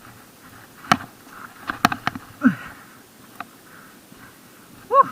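Mountain bike rattling over a rough trail: scattered sharp knocks and clicks, with a short pitched squeak near the end.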